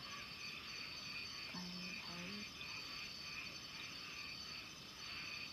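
Small rice-paddy frogs calling in a chorus of short repeated notes, about two a second, with a steady high insect trill coming and going. There is a brief low pitched sound about a second and a half in.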